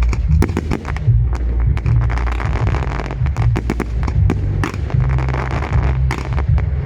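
Fireworks display: a quick run of bangs and crackles from bursting shells, dense in places. Underneath runs loud music with a heavy, stepping bass line.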